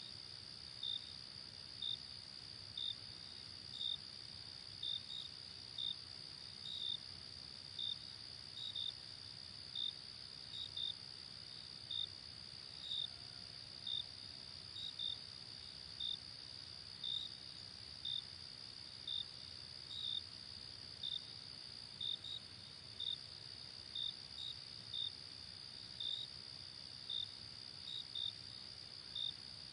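Crickets at night: a steady high trill, with short chirps repeating about once a second, often in quick pairs.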